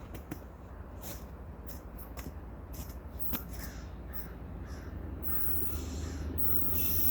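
A bird calls in a run of short falling calls from about four seconds in, over a steady low rumble that grows louder toward the end, with scattered clicks in the first half.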